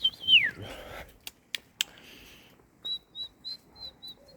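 Bird song of high whistled notes: a short trill, then a falling whistle, and near the end a run of short repeated notes at about three a second. A few sharp clicks come in the middle.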